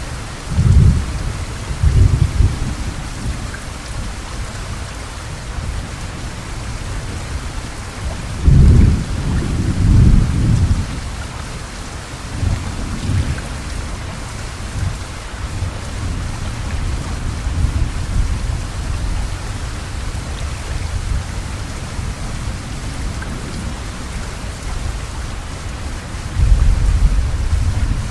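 Heavy rain falling steadily on the street, roofs and trees as a dense, even hiss. Several sudden low rumbles rise over it, the strongest about eight to ten seconds in and near the end.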